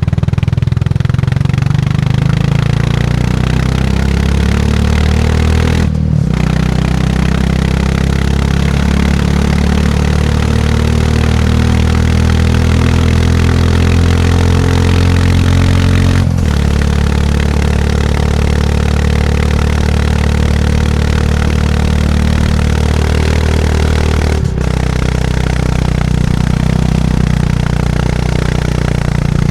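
Classic motorcycle engine running under way, a steady thumping note. The note briefly breaks three times and picks up again at a different pitch, climbing slowly in between.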